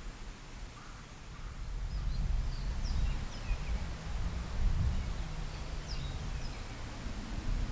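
Outdoor ambience: a low rumble that swells about a second and a half in, with a few faint bird chirps about two to three seconds in and again near five seconds.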